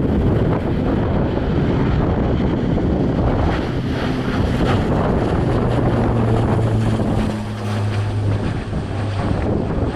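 Wind buffeting the microphone over the steady noise of an aircraft's engines, with a low hum that sets in about a third of the way through and fades near the end.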